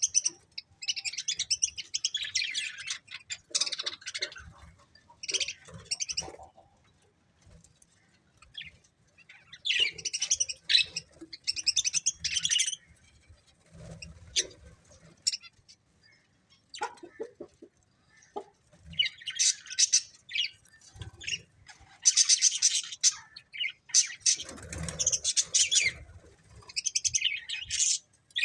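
Budgerigars chattering in bouts of rapid high chirps and warbles, each bout lasting a second or a few, with quiet pauses between them. A soft lower rustle comes in with the chirping near the end.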